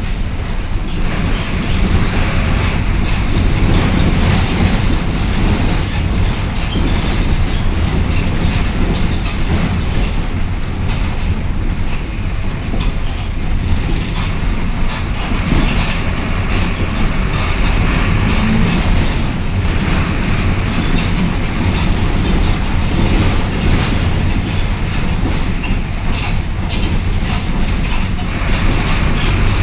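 Mercedes-Benz OF-1721 Bluetec 5 city bus heard from inside while driving: a steady low engine rumble with the body and fittings rattling throughout. A faint high whine comes and goes several times.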